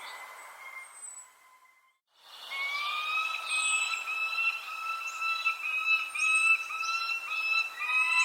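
Birdsong: a steady, held note breaks off about two seconds in. After a short gap, the bird repeats short, slightly rising notes about twice a second, while another bird gives thin, high, downward chirps.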